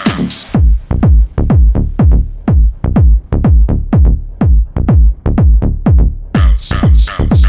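Techno from a DJ set. About half a second in the treble drops out, leaving a deep, pounding kick drum about twice a second, each hit falling in pitch. The hi-hats and upper layers come back in near the end.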